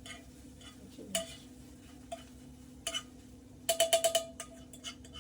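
A metal utensil clicking against a bowl or pan, one sharp tap at a time and then a quick run of about six taps, while the eggs are made; a steady low hum runs underneath.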